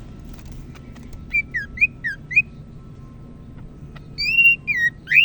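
Cucak ijo (leafbird) singing clear whistled notes: a quick run of five short up-and-down notes about a second in, then a longer phrase of gliding notes near the end, finishing on a rising note.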